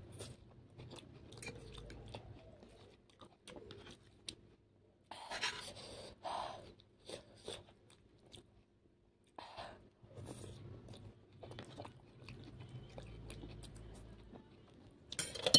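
Mouth noises of someone chewing Maggi masala noodles: soft wet smacks and clicks throughout, with louder bursts about five seconds in and near the end.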